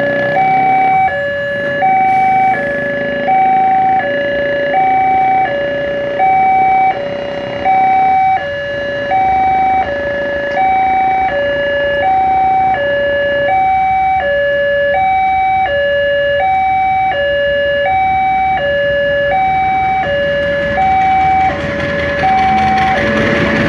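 Railway level-crossing warning alarm sounding: two electronic tones alternate steadily, high then low, each held for about 0.7 s, signalling that a train is due. A broad rumbling noise builds near the end.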